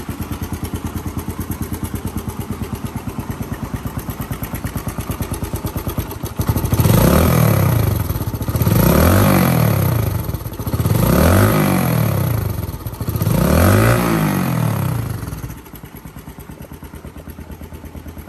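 Suzuki GN125's single-cylinder four-stroke engine, breathing through a Beams aftermarket muffler, idling steadily. About seven seconds in it is revved four times in a row, each rev rising and falling, and then it settles back to idle.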